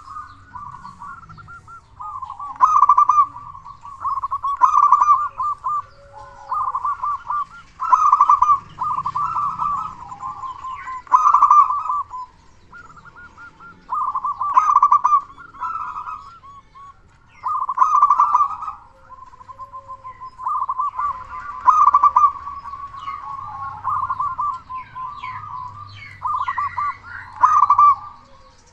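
Zebra dove (perkutut) cooing: loud, rapidly pulsed coo phrases repeated about every one to two seconds, some running into one another, with fainter higher chirps between them.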